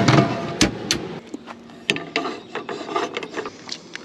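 Scraping and rubbing of handled objects, with a few sharp knocks in the first two seconds.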